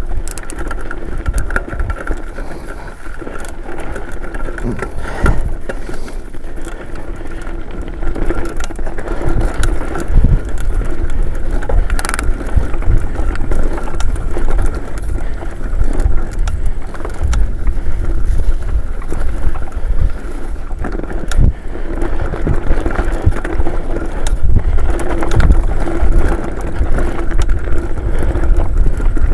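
Mountain bike riding down a dirt singletrack trail: knobby tyres rolling over dirt and roots, with the bike clattering and knocking over bumps. Wind rumbles on the microphone throughout.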